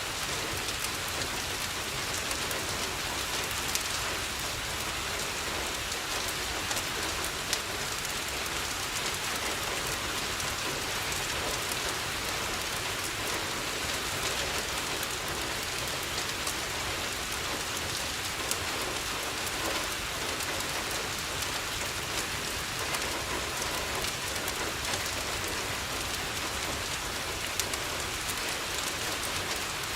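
Steady rain falling on a window, a constant hiss with scattered small clicks and ticks.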